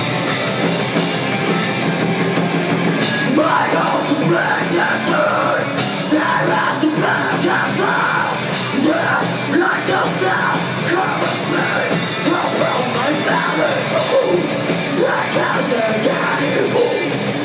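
Rock band playing live, a loud heavy rock song; about three and a half seconds in, the singer's voice comes in over the band.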